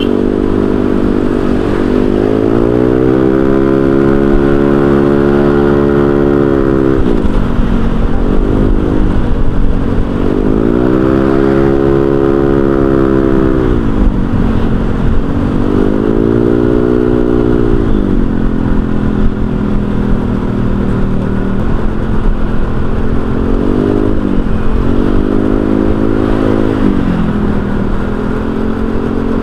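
Honda Vario 125 scooter's single-cylinder engine heard through an aftermarket racing silencer while riding. The exhaust note climbs under throttle and eases back several times, with a continuous road rumble underneath.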